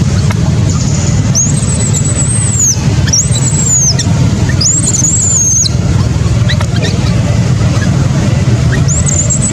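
Baby monkey crying in high, drawn-out squeals, four calls of about a second each that rise, hold and fall, the last near the end. Under them runs a loud, steady low rumble.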